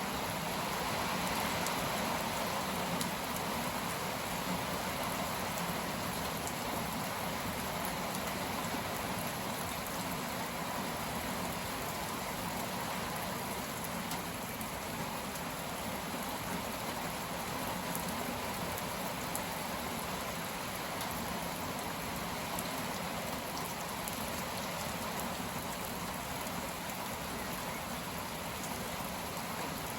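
Heavy rain pouring steadily, a dense even hiss of rain on surfaces, in the downpour that comes with a passing convective cold front.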